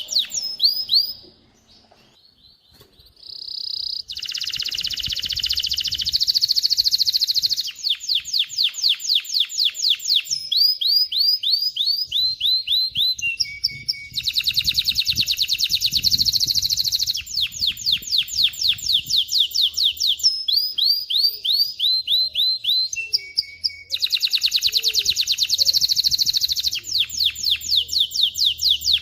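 Male domestic canary singing a long song of rapid repeated notes, rolling trills and runs of quick falling whistles, changing phrase every few seconds. The song breaks off briefly about a second in and picks up again.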